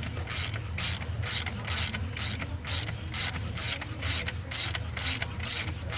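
Ratchet clicking in an even back-and-forth rhythm, about two strokes a second, as a thread tap is turned down into a head bolt hole in an aluminum Honda 3.5L engine block.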